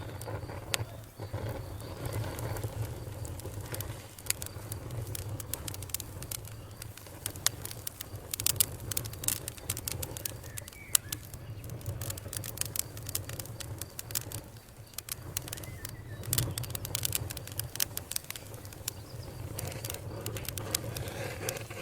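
Campfire crackling and popping, the sharp snaps coming thick and fast about a third of the way in and again near the end, over a low steady rumble of burning.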